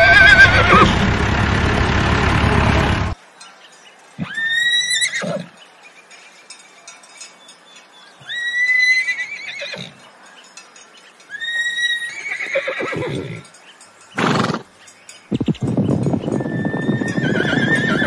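Horse whinnying. A loud opening whinny cuts off suddenly about three seconds in, followed by three separate calls a few seconds apart, each a high held cry breaking into a shaky falling neigh. Near the end a steady rumble of galloping hooves comes in under another whinny.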